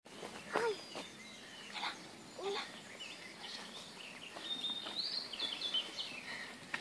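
Birds singing in woodland, a run of high whistled notes stepping up and down, with three short, sharp sounds in the first couple of seconds.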